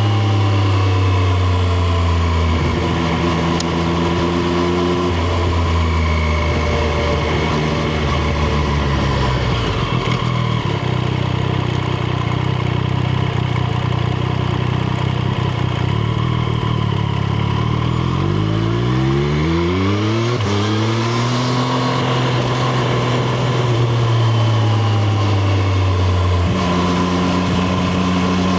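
Triumph Street Triple RS's 765 cc inline three-cylinder engine heard from onboard while riding. The revs hold and shift in steps, climb sharply about two-thirds of the way through, then ease slowly down.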